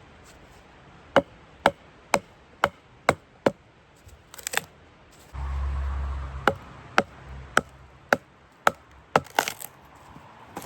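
Sharp, evenly spaced knocks of a hand tool striking wood, about two a second, with a short break midway where a brief low rumble comes in.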